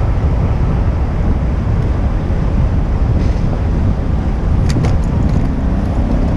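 Wind buffeting a GoPro's microphone while riding a bicycle through city traffic, a steady low rumble of wind and road noise. Two sharp clicks come close together about three-quarters of the way through.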